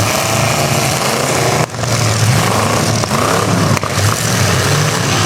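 Several demolition derby cars' engines running loud and revving up and down together, with a constant roar.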